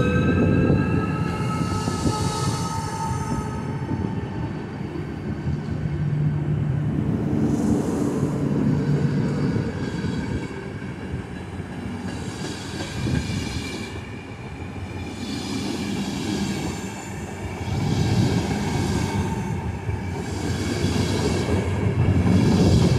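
ČD passenger coaches rolling past behind a class 380 electric locomotive as the train pulls out: a steady rumble of wheels on rails that swells every few seconds as each pair of bogies goes by, with a faint high wheel squeal.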